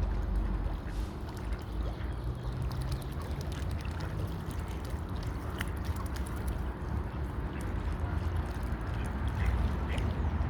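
Lakeside water sounds, splashing and gurgling over a steady low rumble, with a few brief faint calls from the waterfowl on the lake.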